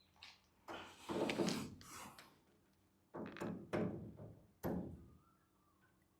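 Fuel being drained from a Piper Warrior's fuel sump drain into a sampler cup: one longer rush, then three short spurts. This is the pre-flight check for water in the avgas.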